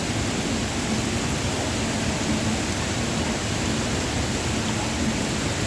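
Steady rush of a mountain waterfall: an even, unbroken roar of falling water.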